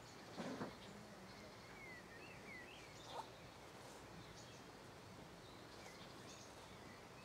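Near silence with faint bird chirps now and then, and two short soft knocks, about half a second in and at about three seconds.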